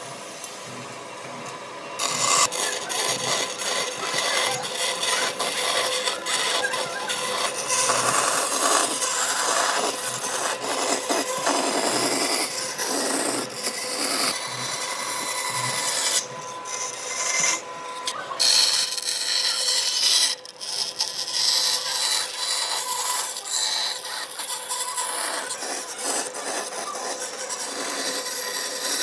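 Wood being worked with a hand tool, a dense rasping and scraping texture of many quick strokes, broken off abruptly several times as the footage jumps.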